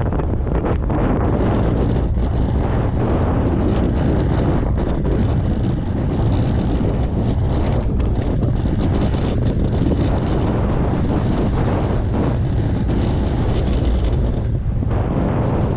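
Watercraft engine running steadily under strong wind buffeting on the microphone.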